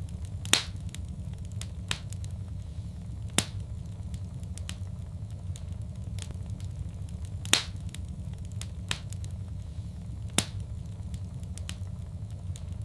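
Fire crackling in a fireplace: a steady low rumble with scattered small crackles and four sharp pops. The loudest pops come about half a second in and about seven and a half seconds in.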